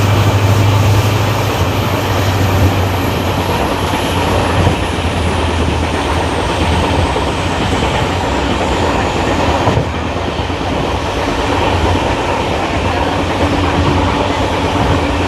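Passenger train running at speed: a steady, loud rumble of coaches and wheels on the rails, with a low hum in the first few seconds. A faint high whine slides slowly down in pitch over the first ten seconds, and the overall noise drops a little about ten seconds in.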